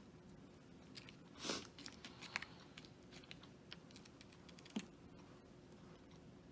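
Faint eating sounds: scattered small clicks and crackles from biting fried food and handling food packaging, with one louder crackle about a second and a half in.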